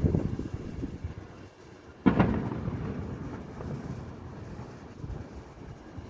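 Aerial fireworks shells bursting. There is a deep boom about two seconds in that rolls away over the next couple of seconds, the tail of an earlier burst at the start, and another boom right at the end.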